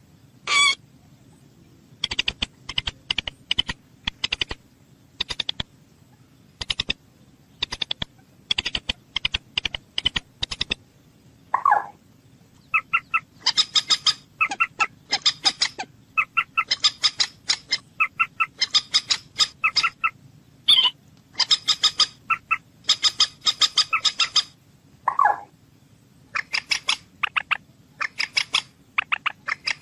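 Moorhen calling: bursts of quick, sharp repeated notes with short gaps between them, and twice a lower, drawn-out call falling in pitch.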